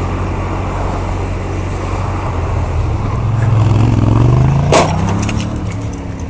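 A motor vehicle's engine running, then speeding up with a rising whine that peaks about four and a half seconds in, cut across by a sharp bang and a short run of light clattering clicks.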